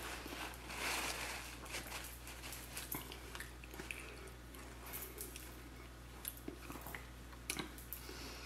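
Quiet chewing and mouth sounds of a person eating, with scattered soft clicks and smacks.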